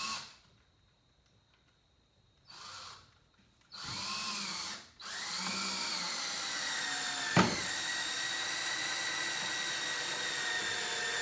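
Cordless drill driving long screws into plywood: a few short spins, then one long continuous run with a sharp click partway through. The motor is winding down, its pitch sagging slowly, because the battery pack is nearly flat.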